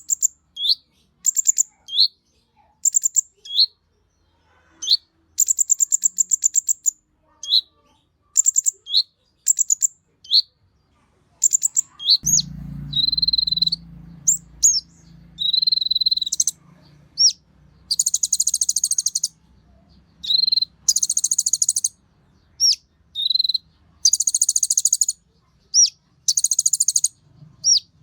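Konin songbird singing a repeated phrase: short rising chirps alternating with fast, high, buzzy trills, with a few longer held whistles midway. A low hum comes in underneath about twelve seconds in.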